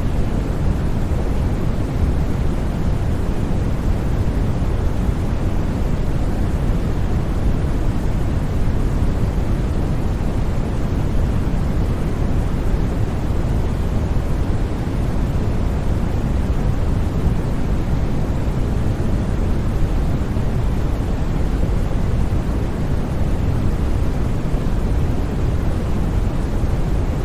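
Steady, unchanging synthetic white noise, weighted toward the low end, with no breaks or sudden sounds.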